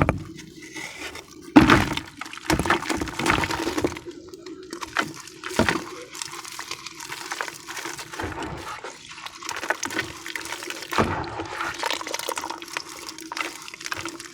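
Crumbly sand-and-cement clumps breaking apart in water and being worked into a wet paste: irregular crackling and crunching with wet splashing, loudest at about two seconds in and again near the end.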